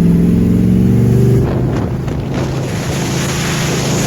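Camaro Z/28's V8 engine running under throttle while driving, its note dropping away about a second and a half in, leaving road and wind noise rushing over the microphone.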